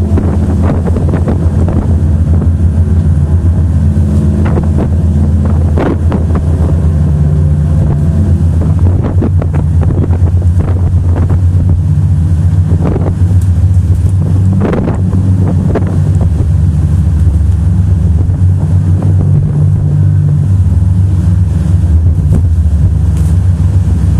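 A motorboat engine running steadily, with wind buffeting the microphone and a few sharp thumps.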